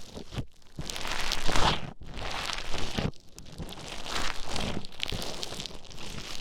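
Play Foam (beaded modelling foam) being squished and stirred right at the microphone: a dense, crackly, crunchy rustle that comes in repeated swells of about a second each.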